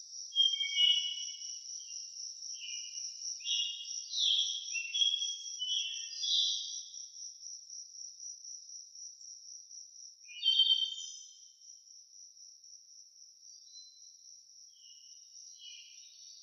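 A steady, high, rapidly pulsing insect trill, cricket-like, runs throughout. Over it, songbirds sing short chirping phrases: a run of them in the first several seconds, a louder burst about ten seconds in, and fainter ones near the end.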